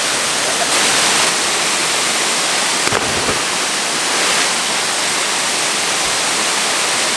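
Steady rushing of a waterfall, with a brief thump about three seconds in.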